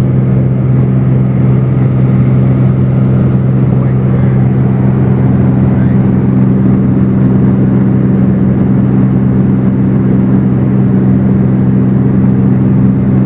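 Cessna 210's piston engine and propeller running at a steady cruise, a loud even drone heard from inside the cabin in flight.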